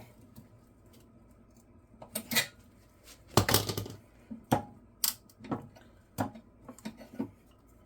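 Pliers clicking and clinking against metal engine parts as a bent part is worked back into shape: a string of short sharp clicks, with a longer, louder scrape about three and a half seconds in.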